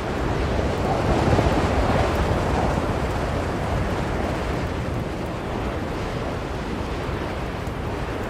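Blizzard wind blowing in a steady rush, with a gust swelling about a second in and easing off by three seconds.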